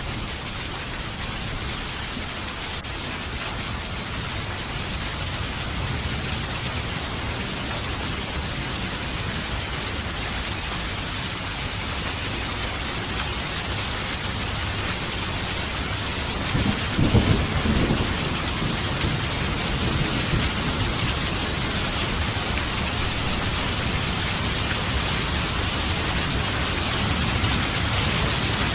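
Steady heavy rain falling, with a roll of thunder rumbling about two-thirds of the way through and more thunder building at the end. The rain grows gradually louder.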